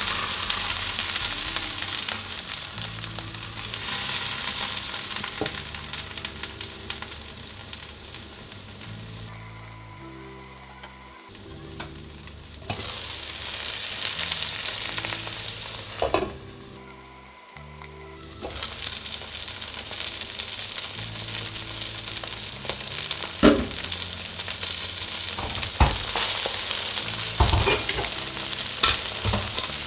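Wide rice noodles, chicken and egg frying in oil in a wok: a steady sizzle, the noodles still pale and only starting to colour. In the last several seconds a few sharp knocks, like a spatula striking the wok.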